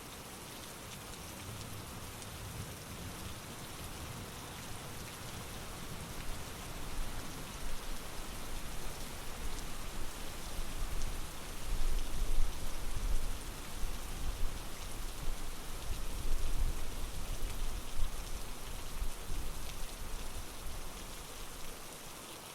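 Heavy rain falling steadily, with a low rumble of thunder that swells from about six seconds in, peaks in the middle and dies away near the end.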